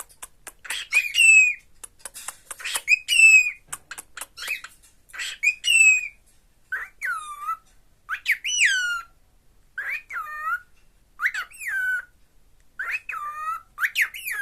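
Cockatiel calling over and over. First come short calls that rise and fall in pitch, mixed with clicks, about one every two seconds. From about halfway on they give way to swooping whistles that dip and rise again, one every second and a half or so.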